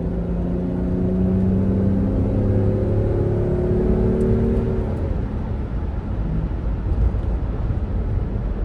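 2005 Land Rover Freelander's engine pulling under acceleration, its note rising slowly for about five seconds. The engine note then fades, leaving steady road and tyre noise.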